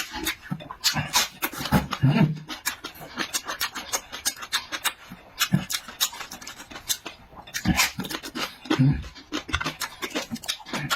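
A person chewing and smacking food, a dense run of irregular wet clicks with a few deeper thuds.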